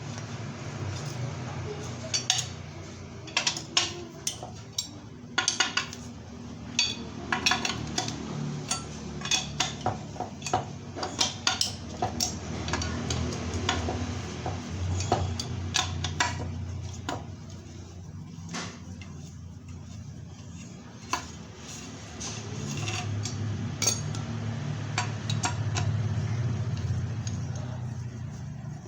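Metal tools and steel engine parts clinking and clanking irregularly during a Vespa Super engine teardown, over a low steady hum.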